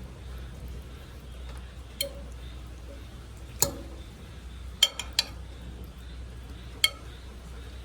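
Metal utensils clinking against the grill as barbecue skewers and chicken legs are turned: about six sharp, irregular clinks over a steady low rumble.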